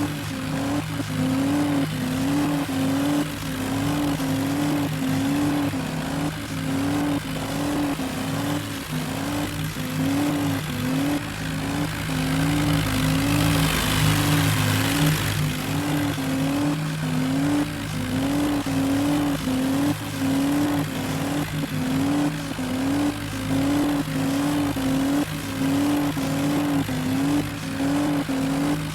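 Tractor diesel engines running hard under load, with a wavering tone that repeats about once a second and a louder, rougher surge about halfway through.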